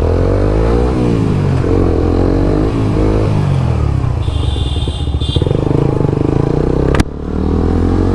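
Suzuki GSX-R150 single-cylinder motorcycle engine accelerating under way, its pitch climbing and dropping back with each gear change. A sharp click sounds about seven seconds in.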